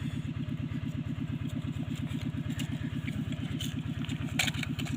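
A small engine idling steadily with a rapid, even low throb, and a brief clatter about four and a half seconds in.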